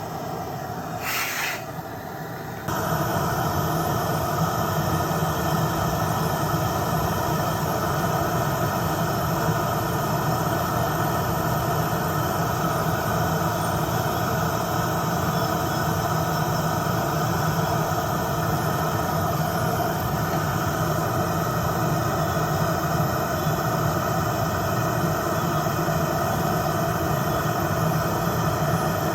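Electric nail drill (e-file) running, its bit grinding off nail product in a removal. The drill gets louder about three seconds in, then runs steadily.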